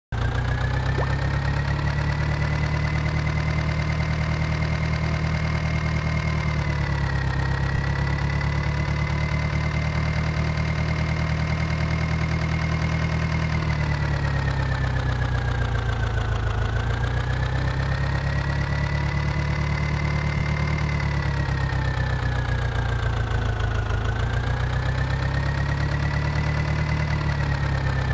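Tractor engine running steadily, its speed sagging slightly and recovering three times.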